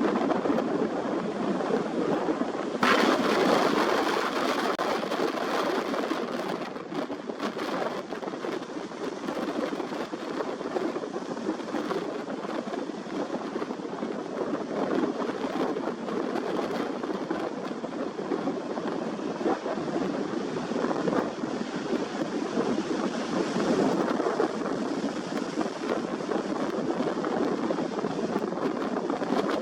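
Steady rushing of wind and ocean surf, with a louder gust of wind about three seconds in.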